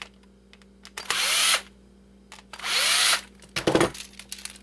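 Power screwdriver run in two short bursts, each spinning up and winding down within about half a second, to back screws out of the phone's plastic housing. A brief rattle of handled parts follows, among light clicks.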